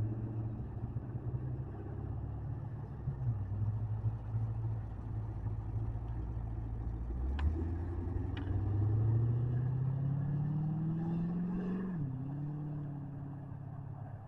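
C4 Chevrolet Corvette's V8 running low and steady as the car rolls out, then revving up smoothly for several seconds under acceleration. The pitch drops sharply at an upshift about twelve seconds in, and the engine fades as the car pulls away.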